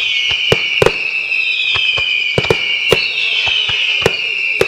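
Daytime fireworks display: several whistling shells shrieking together at once, their pitch slowly falling, with sharp bangs going off about two a second.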